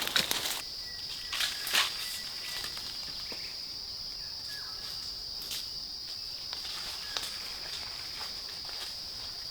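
Steady high-pitched insect buzz that starts about half a second in and holds without a break, with a few short rustles of dry fallen leaves, a handful of sharp crackles from someone moving through the leaf litter.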